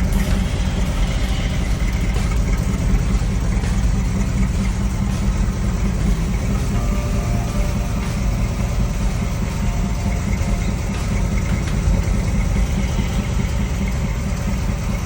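A 454 big-block V8 in a 1961 Chevrolet Apache truck idling steadily.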